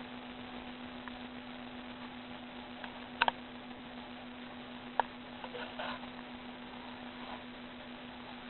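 A steady low hum over a background hiss, with a few sharp clicks: two close together about three seconds in, another about five seconds in, and a small patter of ticks just after.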